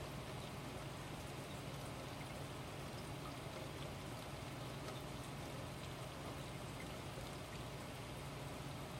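Steady light rain falling, with scattered drops ticking, over a faint low hum.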